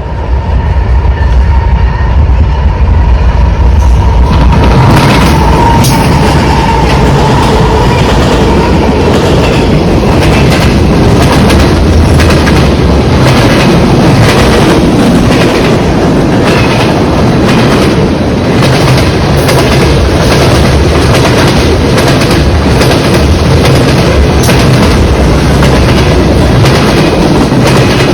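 Freight train passing close: a deep diesel locomotive rumble for the first few seconds, then the railcars' wheels clacking steadily over the rail joints. A thin wheel squeal fades out about six seconds in.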